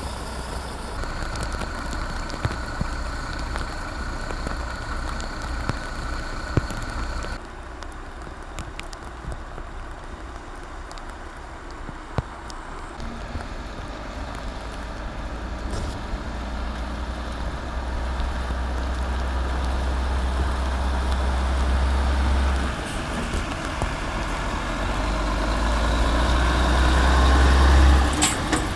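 Heavy recovery truck's diesel engine running, with a steady whine over it for the first seven seconds that cuts off suddenly. The engine rumble then builds twice and grows louder toward the end, as the truck moves off with the wreck in tow.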